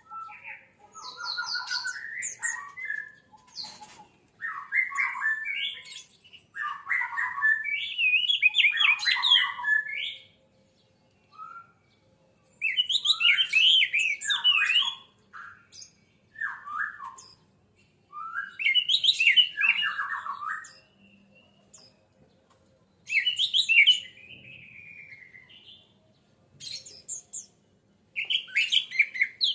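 Orange-headed thrush singing: a string of varied, quickly warbled phrases, each a second or three long, separated by short pauses.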